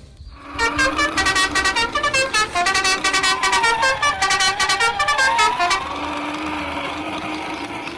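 Vehicle horns tooting in a rapid run of short pitched honks for about five seconds, with a wavering tone that dips and rises beneath them. A steadier, quieter hum follows near the end.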